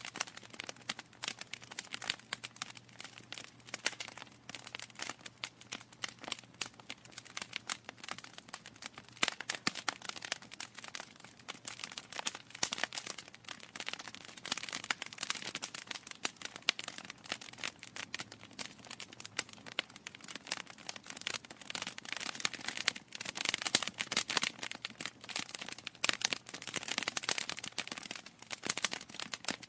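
Wood fire crackling in a fireplace: a steady stream of irregular sharp pops and snaps over a soft hiss, growing denser and louder for a few seconds near the end.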